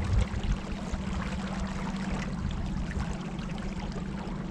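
Water rushing and splashing along a moving boat, with a steady low hum underneath.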